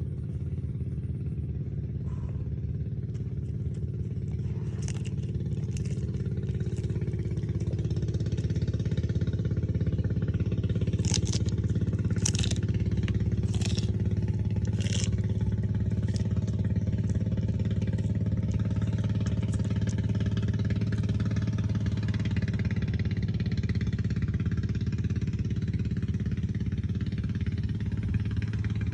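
A steady low motor drone runs throughout. Over it, between about 4 and 20 seconds in, come a series of sharp, crisp crunches: a sulcata tortoise biting into Chinese kale.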